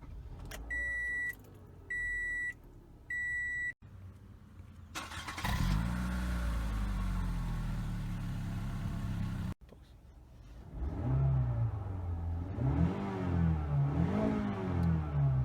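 Three short electronic beeps from the car, then a 2013 Toyota Camry SE's engine with its stock muffler still fitted, revving up and held, and later revved up and down several times in a row.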